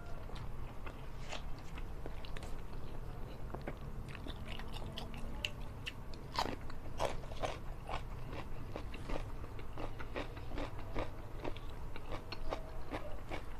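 Close-up mouth sounds of eating: chewing, then from about six seconds in a run of crisp, short crunches as a raw cucumber slice is bitten and chewed.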